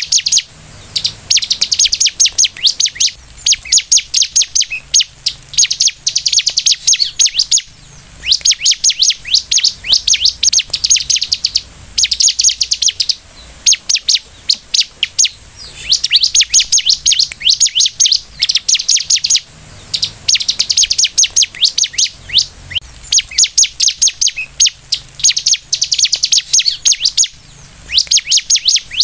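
Bar-winged prinia (ciblek) singing in full song: very fast, high, rattling trilled phrases of about one to two seconds each, repeated one after another with short pauses between them.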